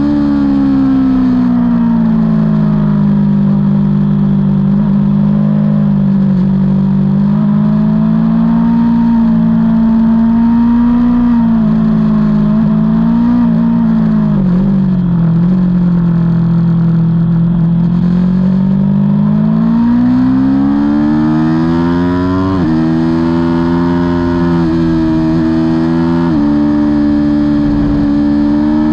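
Aprilia Tuono V4's V4 engine under race load, heard on board, its pitch falling and climbing with the throttle. In the last third the pitch changes suddenly a few times.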